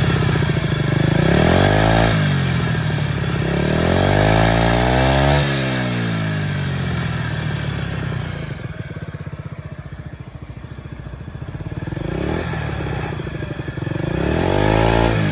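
Honda Zoomer scooter's small single-cylinder engine being blipped on the throttle: it revs up and drops back four times, two early and two near the end, idling lower and steadier in between.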